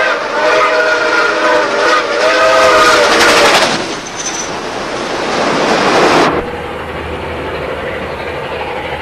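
Steam locomotive's chime whistle sounding two long blasts, several tones together. A loud rush of steam follows and stops abruptly about six seconds in, leaving a quieter steady rumble.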